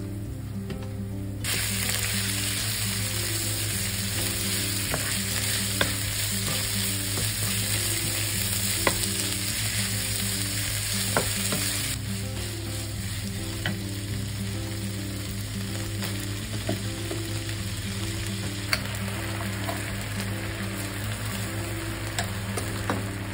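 Beef sizzling as it is stir-fried in oil in a frying pan, with a wooden spatula scraping and tapping against the pan. The sizzle jumps up sharply about a second and a half in, as the meat goes into the hot oil, and eases down about twelve seconds in.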